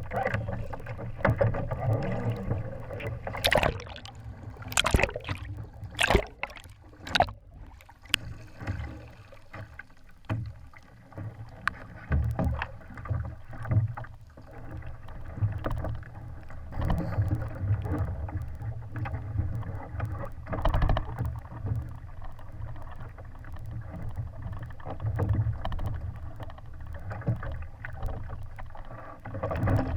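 Sailing dinghy under way: wind buffets the microphone as a pulsing rumble, over a steady wash of noise from the water. A cluster of sharp knocks comes a few seconds in.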